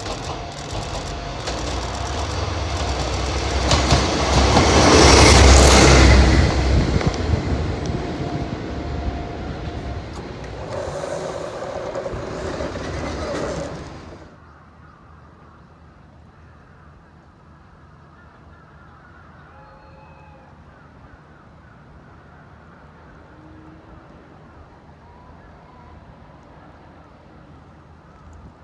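A freight train hauled by a diesel locomotive passing close by, its rumble building to a peak about five seconds in and staying loud until it cuts off suddenly about fourteen seconds in, leaving a low steady background.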